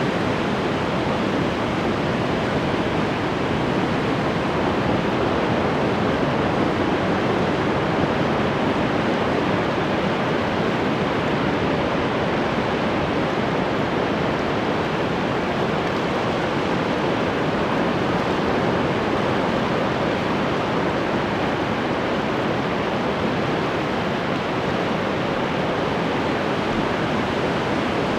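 Ocean surf washing continuously onto the shore, a steady even rush with no separate wave crashes standing out.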